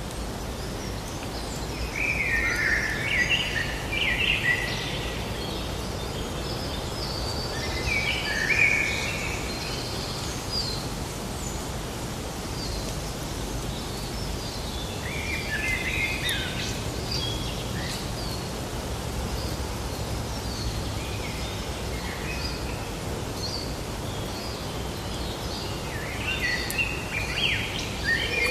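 Forest birds singing and chirping in several bouts over a steady low background hum of outdoor ambience.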